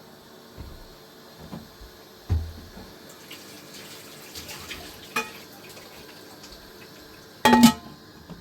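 Water running, with a few scattered knocks, a heavy thump about two seconds in, and a loud ringing clatter near the end.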